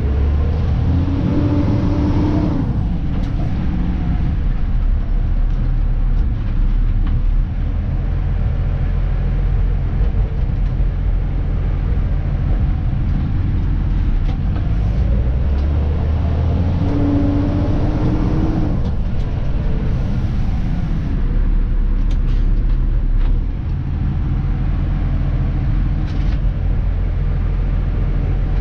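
Dennis Elite 2 garbage truck heard from inside the cab while driving: a steady low engine and road rumble, with the engine note rising and then dropping away twice, once near the start and again about two-thirds of the way through.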